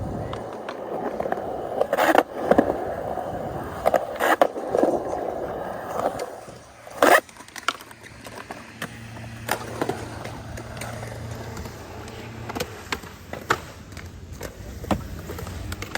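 Skateboard wheels rolling over the skate park surface, with sharp clacks of a board hitting the ground, the loudest about two, four and seven seconds in; the rolling is lighter in the second half.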